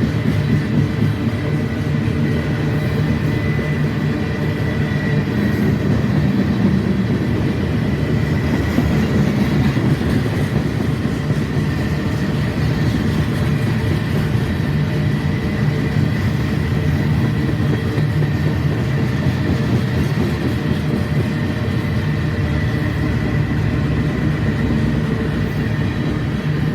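A freight train rolling steadily past, with the low drone of its running gear and cars and a faint steady high whine above it, and no horn.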